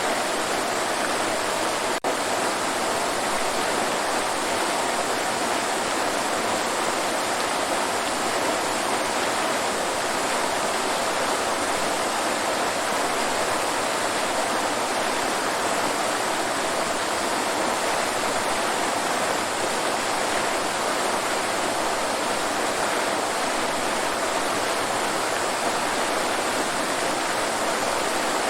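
Waterfall: a steady, even rush of falling water, with a momentary dropout about two seconds in.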